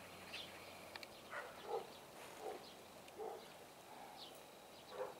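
Faint, scattered short bird chirps, one every second or so.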